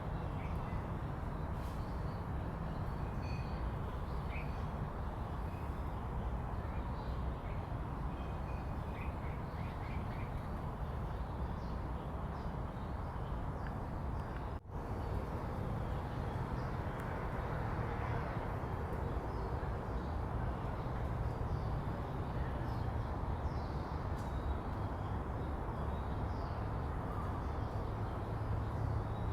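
Urban park ambience: a steady low rumble of city traffic with scattered short chirps of small birds. The sound breaks off for an instant about halfway through.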